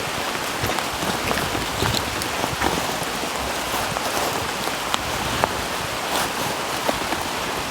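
Steady rain pattering on a tarp overhead, with many small individual drop hits ticking through the hiss.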